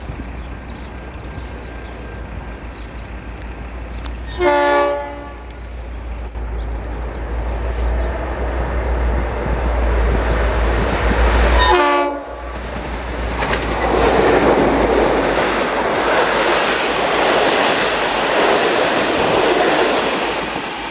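A V/Line N class diesel-electric locomotive hauling carriages comes closer with a steady low engine rumble. It sounds its horn in two short blasts, about four seconds in and again about twelve seconds in; the first is the loudest moment. The locomotive then passes and the carriages roll by with a steady rush of wheel and rail noise, which drops away near the end.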